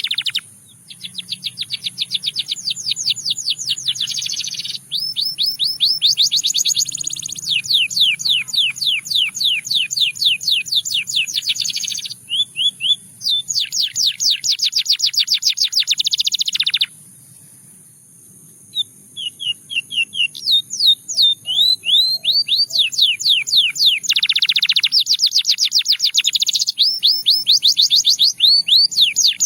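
A Russian-type singing canary delivering rapid trills: long runs of quickly repeated notes, phrase after phrase, some sweeping and some rolling. There is a brief pause about two-thirds of the way through before the song resumes.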